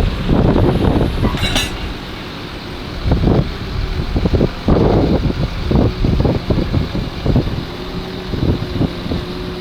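Tractor engine running steadily, half buried under heavy wind buffeting on the microphone that comes in irregular gusts.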